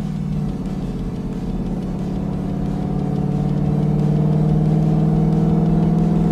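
A 2020 Ford Mustang's engine and exhaust, with an H-pipe and resonator delete, running at steady revs. The revs step up slightly about half a second in, the sound grows louder midway, and it cuts off abruptly near the end.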